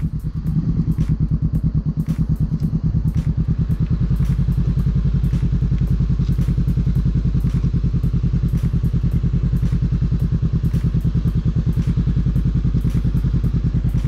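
Honda CBR500R's parallel-twin engine running steadily at low, idle-level revs while the bike creeps through a slow turn on the clutch alone, with a few light clicks over it.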